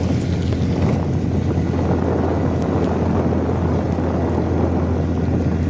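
Wind rushing over the microphone on a moving motorcycle, with the engine's steady low hum underneath.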